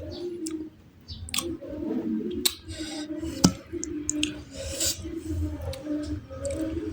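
Close-miked eating sounds: wet chewing and squishing with scattered sharp clicks and smacks, one sharper click about three and a half seconds in.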